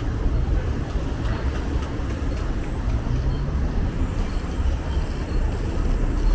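City street traffic: a steady rumble of passing motor vehicles, with one engine rising in pitch about three seconds in.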